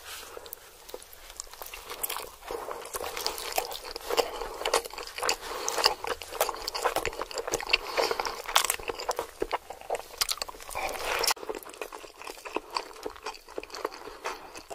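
Close-miked biting and chewing of a cheesesteak sandwich in a bread roll, with a dense run of wet clicks and crunches that thins out about eleven seconds in.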